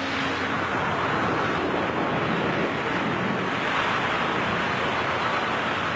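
Steady rush of wind in freefall, the airstream buffeting a microphone carried by a falling skydiver.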